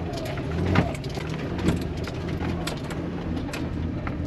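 Jeep Wrangler TJ engine running under way, heard from inside the cab. Sharp knocks and rattles from the body and suspension come about once a second as it drives over trail whoops.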